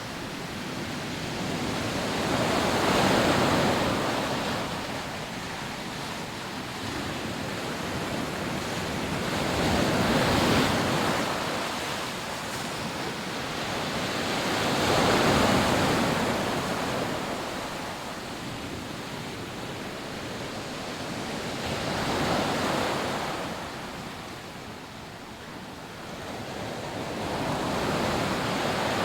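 Rough surf breaking on a sandy beach: five waves build and wash in, each swelling and fading over several seconds, with a steady hiss of surf between them.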